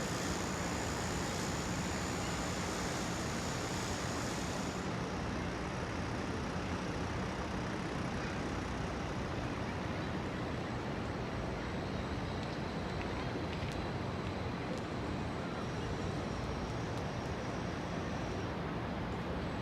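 Steady, dense ambience of a very large crowd at the Grand Mosque: an even wash of indistinct noise with no single clear voice. A faint high whine runs under it and stops about five seconds in.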